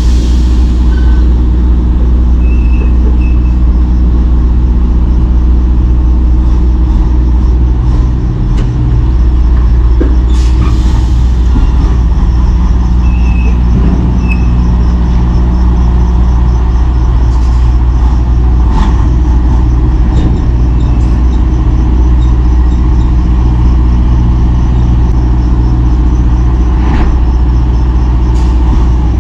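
Semi-truck diesel engine running with a steady low drone, with occasional faint clicks and short high chirps over it.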